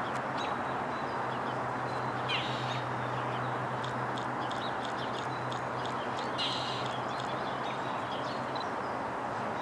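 A wild bird giving two harsh, rasping calls, about two seconds in and again about six seconds in, with short high chips scattered between them, over a steady background rush and low hum.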